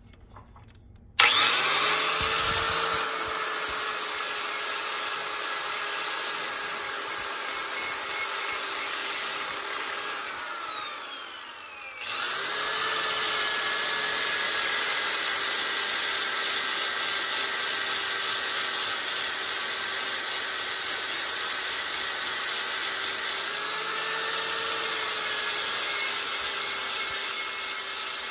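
Electric angle grinder with a 60-grit flap disc grinding rust pits off a steel axe head. It switches on about a second in with a rising whine and runs steadily, winds down with a falling whine about ten seconds in, then starts again and runs on, its pitch rising briefly a few seconds before the end.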